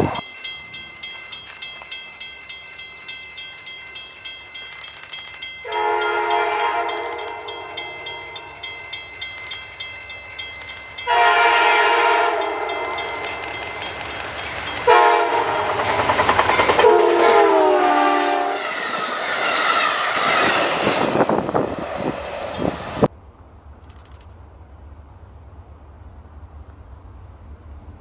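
Passenger train locomotive horn sounding three blasts: two long ones about five seconds apart, then a longer one whose pitch drops as the train passes. Before the horn there is a steady clickety-clack of wheels over rail joints, and the rush of the passing train follows the horn. Near the end the sound cuts off abruptly to a quieter steady rumble.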